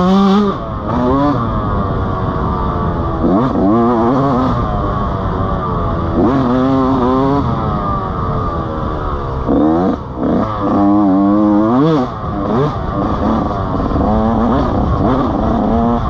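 Motorcycle engine revving hard and dropping back, over and over, its pitch climbing and falling in repeated swells.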